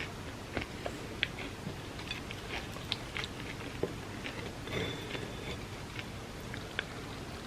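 Close-miked chewing of milk-soaked chocolate cake: short, wet mouth clicks scattered through, over a steady background hiss and hum.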